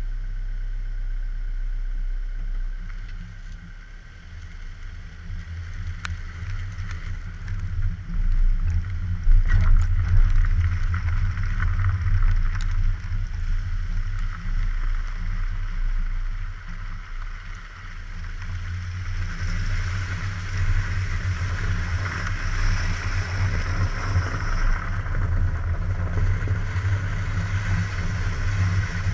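Car engine and road noise heard through a suction-cup-mounted camera on a moving car: a steady low drone that dips briefly twice, with a few sharp knocks in the first half and wind and tyre hiss building in the last third.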